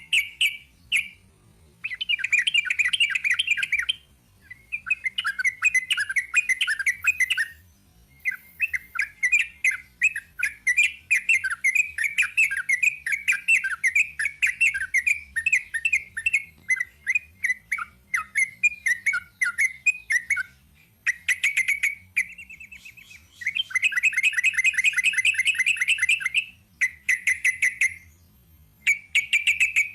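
Yellow-vented bulbul (trucukan) singing a long, rapid, rambling 'ropel' song of fast chattering notes in phrases of several seconds, broken by short pauses, with one long unbroken run through the middle.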